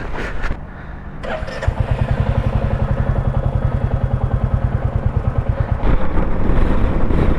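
Royal Enfield Bullet 350's single-cylinder engine starting, then idling with a fast, even beat. About six seconds in it gets louder as the engine is revved.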